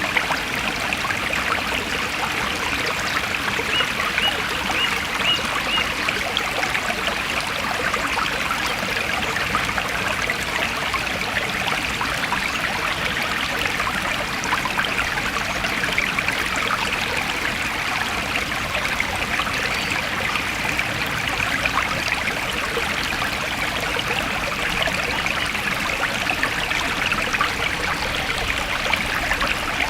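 Forest stream running and trickling steadily, with no breaks.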